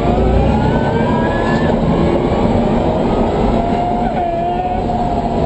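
The converted 1995 BMW M3's twin Warp 11 electric motors whine under acceleration, the pitch climbing over the first couple of seconds and then holding steady. Loud road and wind noise runs underneath, heard from inside the car.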